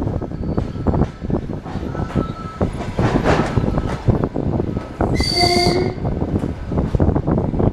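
ED9M electric multiple unit running, with steady rail noise and frequent rattles and knocks. A short shrill tone sounds about five seconds in.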